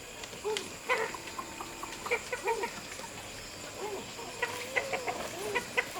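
Chickens clucking: a string of short, separate calls, with a few light clicks among them.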